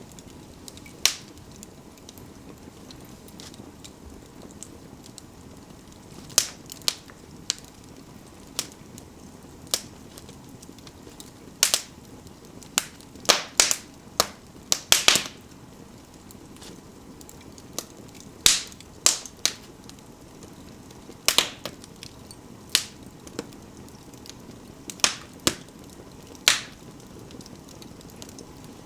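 Wood fire in an indoor fireplace crackling: sharp, irregular pops and snaps, some in quick clusters, over a soft steady hiss of burning.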